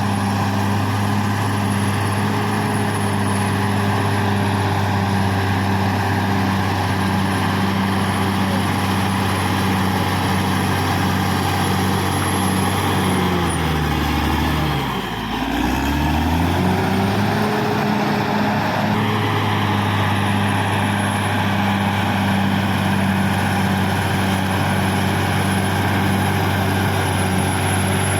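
Caterpillar D6R XL bulldozer's diesel engine running steadily. About halfway through, its pitch drops sharply for a second or two and then climbs back to the same steady note.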